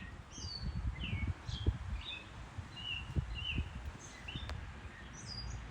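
Backyard birds giving scattered short chirps and calls, over a low, uneven rumble on the microphone.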